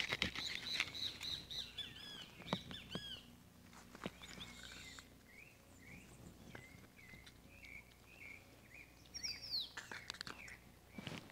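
Birds chirping: many short, quickly repeated chirps through the whole stretch. A few sharp clicks and scrapes stand out at the start and again near the end.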